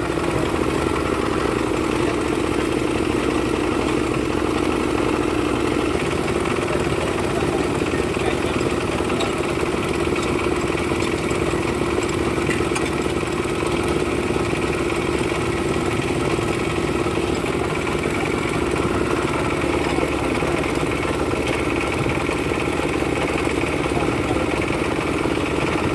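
Freshly rebuilt Hino truck diesel engine idling steadily.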